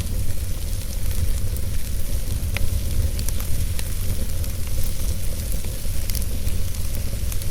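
Wood fire burning in a fireplace: a steady low rumble with hiss and scattered small crackles and pops.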